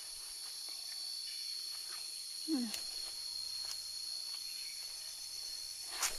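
Steady high-pitched insect chorus drones throughout. A brief low falling sound comes about midway, and a sharp crunch follows just before the end.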